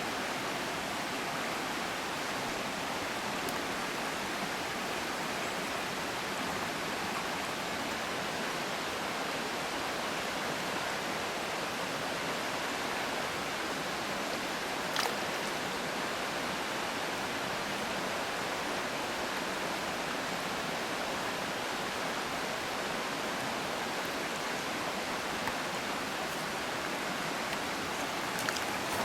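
Steady rushing of a running stream, with one sharp click about halfway through.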